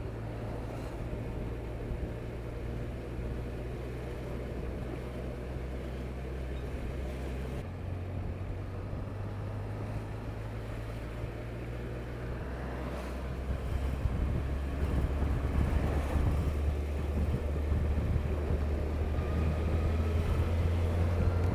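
Honda CBF1000 motorcycle engine running on the road, holding a steady note that shifts about eight seconds in and again around thirteen seconds, then louder with wind noise from about fourteen seconds.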